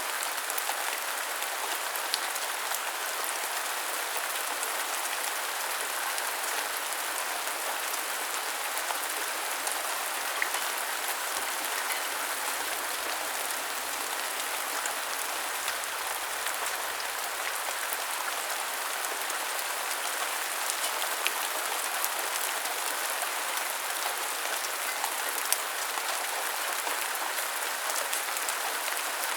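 Steady rain falling: an even hiss, with a few sharper drip ticks here and there.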